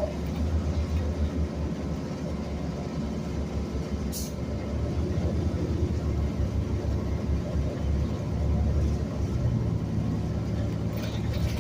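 City transit bus under way, a steady low engine and road rumble, with one sharp click about four seconds in.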